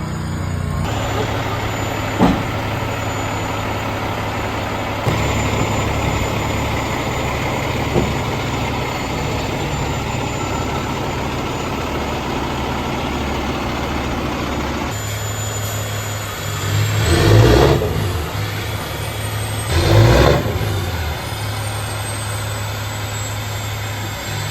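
Heavy diesel engine running steadily, with a few sharp clicks, then revved up and back down twice in quick succession later on.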